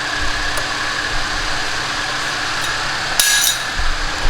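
Steady mechanical hum, with one short metallic clink of a hand tool about three seconds in.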